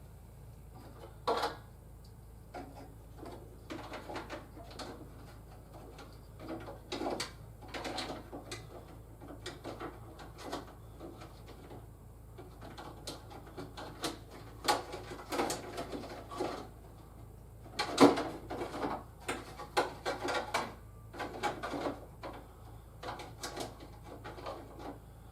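Handling noise from plastic toys being moved about: irregular clicks, knocks and scrapes, some in quick clusters, with the sharpest knock about eighteen seconds in, over a faint steady low hum.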